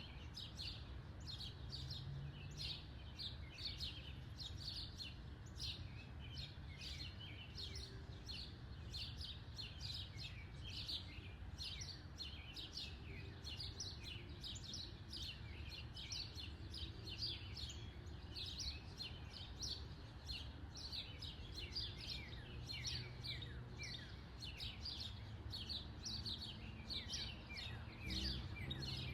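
Birds chirping steadily, many short high chirps, several a second, each sliding downward in pitch, over a low steady background rumble.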